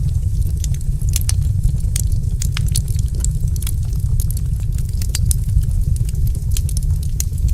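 Wood fire in a fireplace crackling, with frequent sharp, irregular pops and snaps over a low, steady rumble of the flames.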